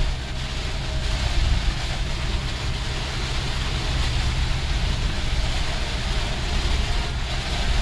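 Mitsubishi L300 van running steadily, a continuous low engine and road rumble with an even hiss of rain and wet road over it.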